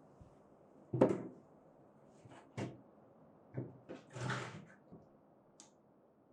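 A handful of short knocks and clunks, the loudest about a second in, with a brief scraping rustle a little after four seconds.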